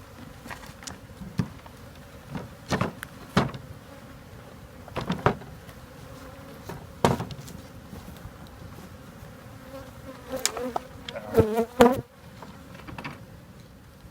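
A mass of honeybees buzzing steadily around an opened hive being cut out, with a louder, wavering buzz near the end as bees pass close. Several sharp knocks punctuate it.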